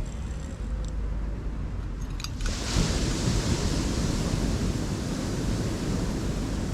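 Steady rush of ocean surf with wind rumbling on the microphone. A couple of short clicks come a little over two seconds in, then the rush suddenly gets louder and brighter.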